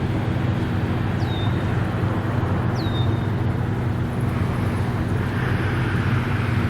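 Steady low engine hum, like a vehicle idling, over outdoor background noise. Two short, falling whistles come about a second and about three seconds in.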